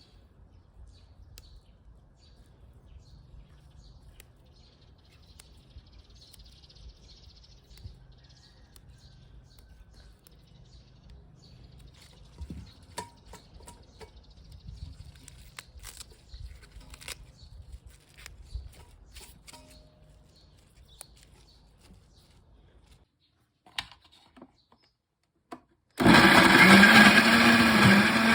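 Quiet kitchen handling with scattered clicks and knocks over a low hum, then an electric blender switching on abruptly near the end and running loudly, its motor pitch wavering as it chops the food.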